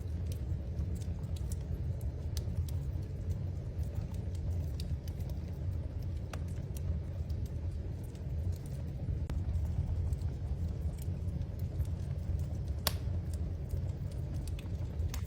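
Wood fire burning in a fireplace, crackling with scattered small pops over a steady low rumble of flames; one sharper pop a little before the end.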